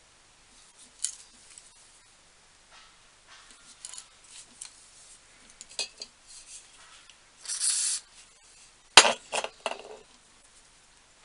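Hand-tapping an 8 mm thread in a metal plate: small metallic clicks and creaks as the tap is turned, with a short scraping burst. About nine seconds in comes a sharp metallic clink, followed by three lighter ones.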